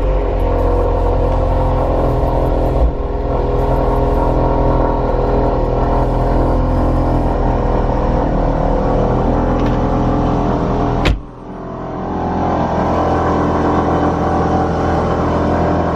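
Ford Focus RS Mk3's 2.3-litre turbocharged four-cylinder running just after its first start on a new Mountune V3 cat-back exhaust, with the exhaust valve delete left in place so the valves stay open, heard from inside the cabin. A sharp click comes about eleven seconds in, and the engine sound dips and builds back up.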